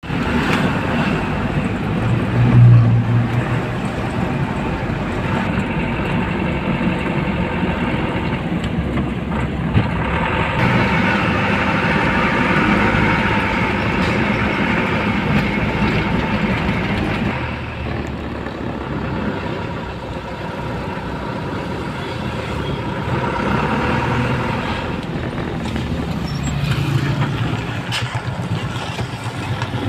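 Heavily loaded truck's engine running steadily with road noise, swelling louder a couple of times. The sound changes abruptly a little past halfway.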